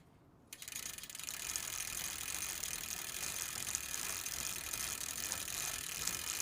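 Bicycle freewheel ratchet clicking fast and steadily as the wheel coasts, starting about half a second in.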